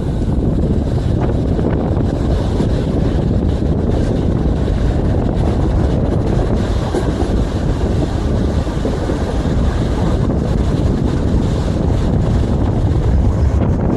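Vario LF2R.E tram in motion, a steady rumble of wheels on rails heavy in the low end, with wind buffeting the microphone.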